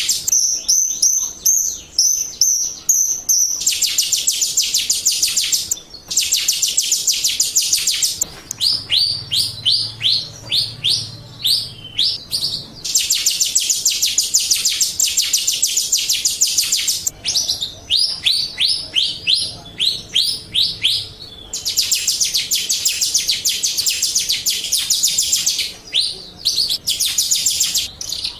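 Jalak Rio starling singing a long, loud song, alternating stretches of very rapid, buzzy chattering lasting a few seconds each with runs of quick down-slurred whistled notes, about four a second.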